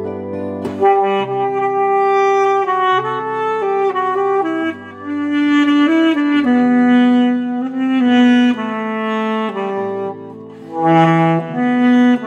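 Instrumental music: a saxophone plays a song melody in long held notes over a backing accompaniment with a bass line.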